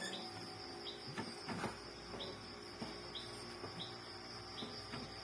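Crickets chirping: a steady high trill with a short, regular chirp about every two-thirds of a second, plus a few faint soft knocks.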